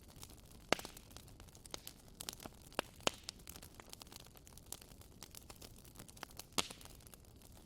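Wood fire burning in a fireplace, crackling with irregular sharp pops over a faint steady hiss. The loudest pops come just under a second in, about three seconds in and near the end.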